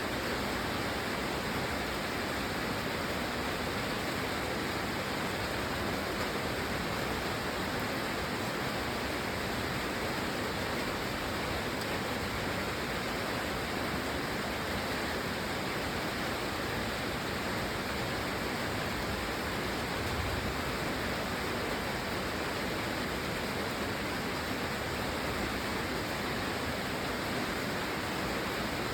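Steady rain, an even, unbroken rush of noise with no single drops, thunder or other events standing out.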